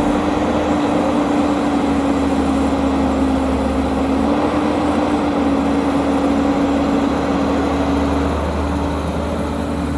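Heavy diesel construction machinery engine running steadily, with a constant whine holding nearly one pitch throughout.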